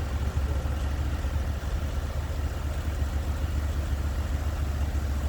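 Portable band sawmill running steadily, its engine humming low and even while the band blade cuts through a log.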